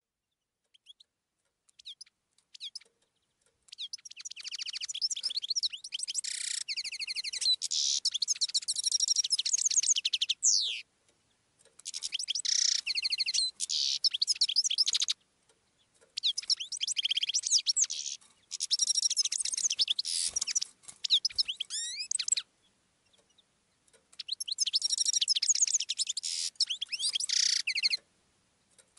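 Birds singing in long bouts of rapid, high chirps and trills, broken by short silences.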